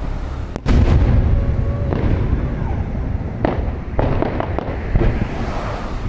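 Aerial fireworks shells bursting: a loud boom just over half a second in, then a low rumble with several further sharp bangs over the following seconds.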